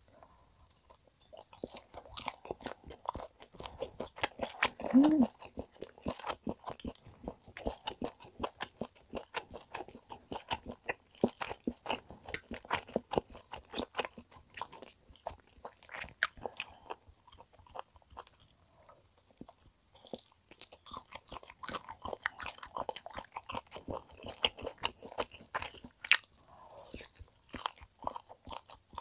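Close-miked chewing of a piece of top blade steak: continuous wet chewing with small irregular clicks and smacks. A brief hum about five seconds in.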